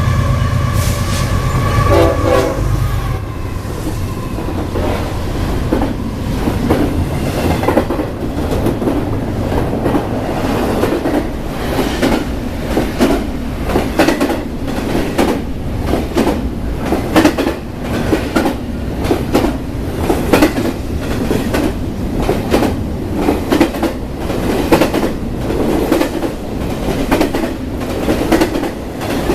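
BNSF intermodal freight train passing: the locomotive horn chord sounds for the first couple of seconds over the diesel locomotives' low rumble. Then the long string of intermodal cars rolls by with a steady, rhythmic clatter of wheels over the rail joints.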